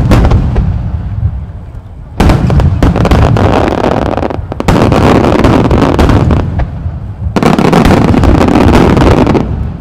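A barrage of shakudama (30 cm) aerial firework shells bursting in rapid succession. The booms overlap into a continuous rumble with crackle, coming in four surges with short lulls between them.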